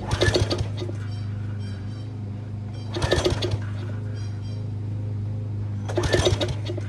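Recoil pull-start attempts on the Titan Industrial pressure washer's small gasoline engine, on its first start after sitting over 30 years: three sharp pulls about three seconds apart. The engine turns over briefly with each pull and does not catch.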